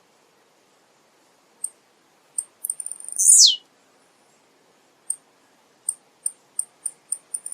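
Male blue-black grassquit (tiziu) singing: a couple of sharp high ticks, then, about three seconds in, a loud buzzy phrase sweeping down in pitch. After it comes a run of high ticks that get quicker toward the end.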